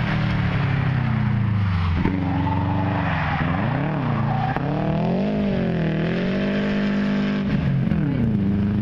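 Subaru Impreza's flat-four engine on a sprint run, heard from the trackside. Its pitch falls about two seconds in, then rises and falls several times, drops once more near the end and climbs again.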